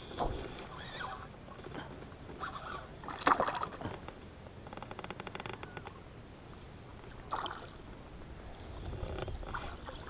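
Water splashing and sloshing around a small boat as a hooked bass is brought in, with a sharp splash about three seconds in. Near the middle there is a short run of rapid, even ticks.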